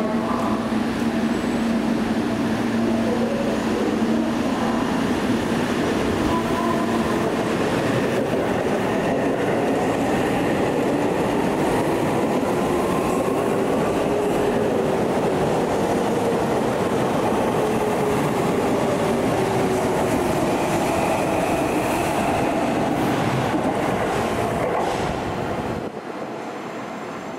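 Electric commuter train running on the rails, with a constant rumble of wheels and a motor whine that rises and then falls in pitch. The noise drops away a couple of seconds before the end as the train clears.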